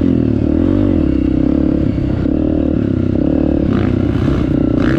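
Honda CRF 250 four-stroke dirt bike engine running on a trail ride, revving up and easing back about half a second in, then holding a steady pace. Clattery knocks from the bike come near the end.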